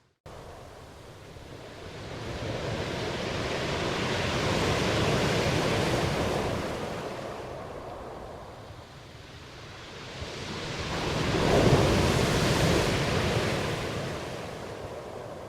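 Ocean surf: two waves wash in and draw back, the second louder, peaking about twelve seconds in. A momentary gap of silence at the very start.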